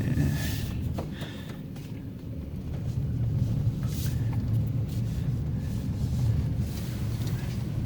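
Pickup truck engine running steadily, heard from inside the cab, as the truck pushes through deep snow and bogs down; it grows a little louder a few seconds in.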